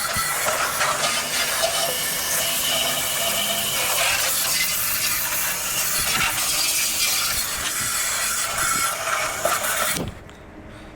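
Steady, loud hiss of a pressurized cleaning spray, cutting off suddenly about ten seconds in.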